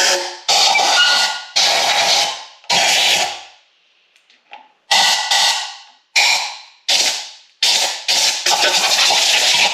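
Compressed-air blow gun firing short, loud blasts of hissing air into the engine block's passages and head-bolt holes to clear out debris. About eight blasts, each starting suddenly and trailing off, with a pause of a second or so near the middle.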